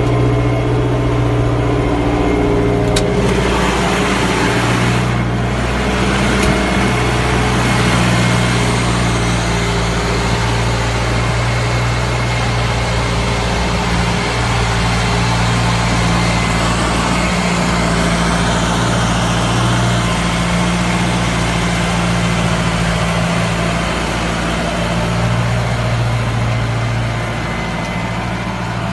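Tractor engine running steadily under load, with a continuous low drone and a broad rushing noise over it.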